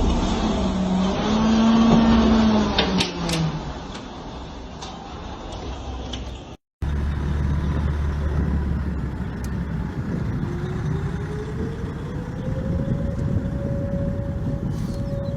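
A wavering, pitched sound over a low rumble, then a brief dropout. Then a heavy low rumble, and near the middle an outdoor warning siren winding up, its pitch rising slowly to a steady wail.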